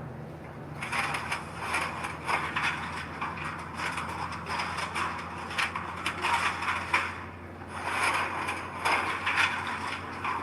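Mini bulldozer working soil: a steady engine hum under irregular clattering and crunching from its tracks and blade, easing off briefly twice.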